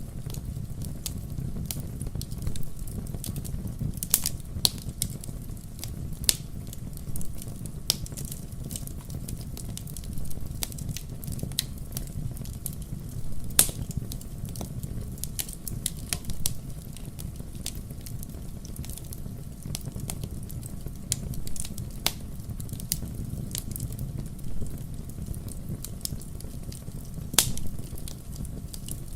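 Wood fire crackling: irregular sharp pops and snaps over a steady low rush of the flames.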